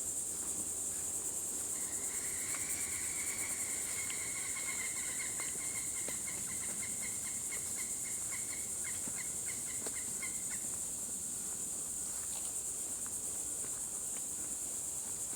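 Steady high-pitched insect chorus, with a long series of rapid, repeated animal calls for about eight seconds that quicken toward the end.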